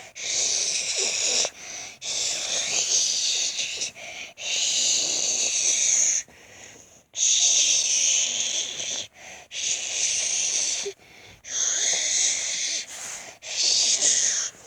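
Breathy, wheezing hiss in repeated stretches of about one to two seconds, with short breaks between them.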